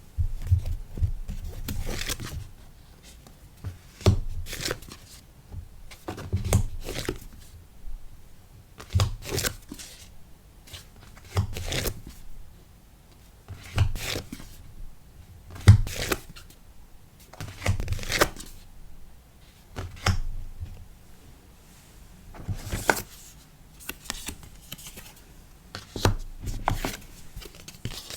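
Stickers and paper packing materials being handled on a desk: rustling, light taps and a soft thump in a burst about every two seconds.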